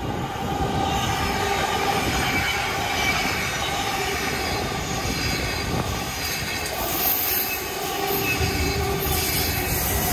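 A train running past close by: a loud, steady rumble of wheels on rails that swells up in about the first second, with faint steady whining tones over it.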